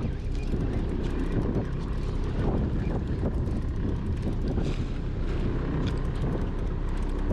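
Steady low rumble of wind buffeting the microphone aboard a small motor boat at sea, with no distinct events standing out.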